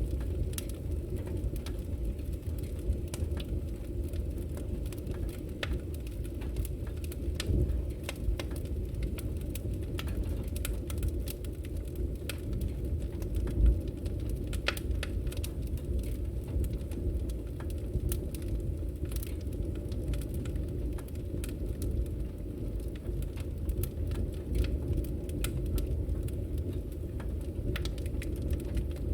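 Bonfire burning: a steady low rush of flames with frequent sharp crackles and pops from the burning wood, and one louder pop a little under halfway through.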